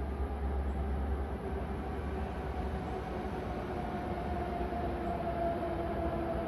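Hokuriku Shinkansen train approaching along the viaduct: a steady rail rumble with faint humming tones, building slowly.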